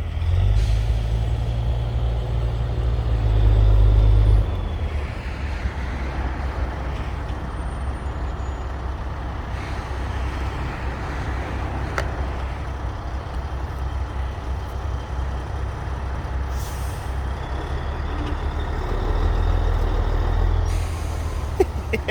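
Heavy diesel engine rumbling steadily at low pitch, louder for the first four seconds and again near the end, with a single sharp click about halfway through.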